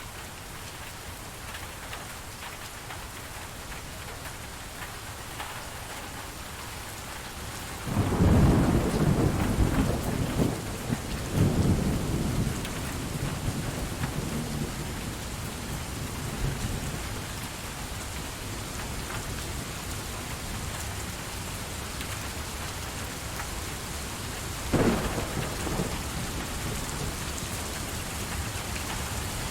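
Steady rain falling, with thunder. A loud rumble breaks in about eight seconds in and rolls on in two swells for about five seconds. A sharper clap with a short rumble comes near the end.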